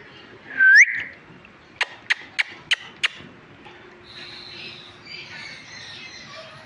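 Pet parrot giving one loud whistle that rises in pitch, followed by five sharp clicks about three a second, then soft, busy chattering.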